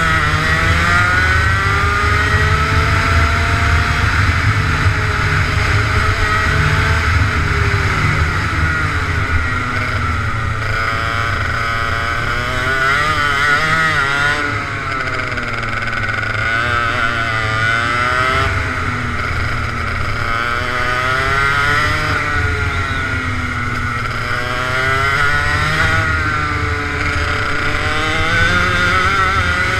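Go-kart engine running under load, its pitch climbing and dropping over and over as the kart accelerates and slows through corners.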